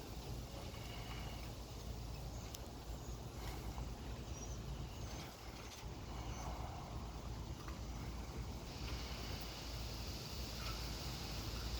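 Wind buffeting the microphone in a steady low rumble, with a few faint, brief high chirps from small birds. A brighter hiss of wind sets in about three-quarters of the way through.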